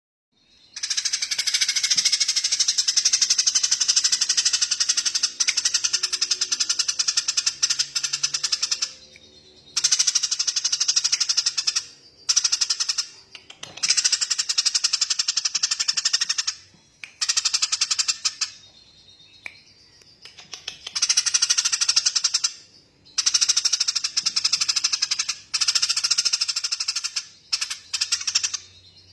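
A bird giving a high-pitched, very rapid rattling trill in long bouts of several seconds, broken by short pauses. The first bout starts just after a moment of silence.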